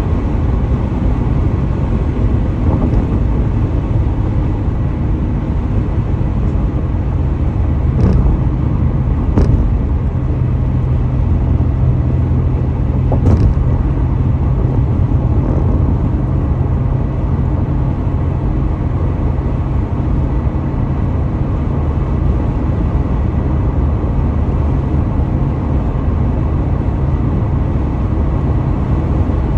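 Car driving at highway speed: steady low road and engine rumble, with three short thumps about a third of the way through.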